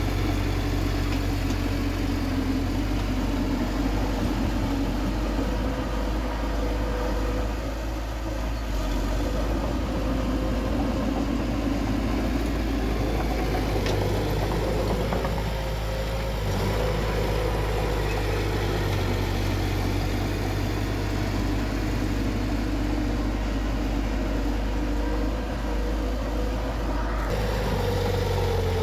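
Diesel engine of heavy earth-moving machinery running steadily with a continuous deep hum; its note dips slightly near the end.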